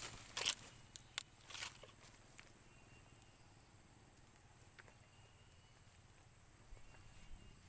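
A few sharp rustles and clicks in the first two seconds, then quiet outdoor background with a steady high insect-like tone and two faint short whistled notes.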